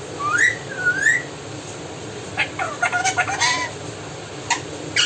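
Pet parrot giving two rising whistles, then a run of quick chattering calls about two and a half seconds in.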